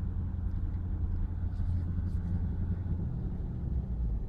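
Steady low rumble of a truck driving slowly, engine and road noise heard from inside the cab.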